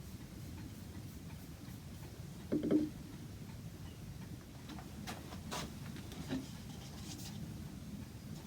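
Handling noises on a wooden clock case: one dull knock a little over two seconds in, then a few light, irregular clicks and taps.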